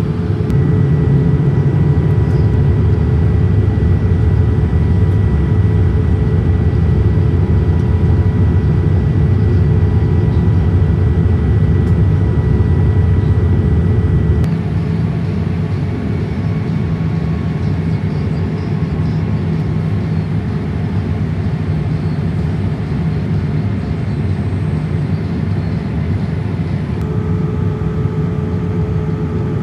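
Steady cabin noise of a Boeing 787-8 airliner with its engines running: a low rumble of engine and airflow with faint steady whining tones. It drops in level abruptly about halfway through and shifts again near the end.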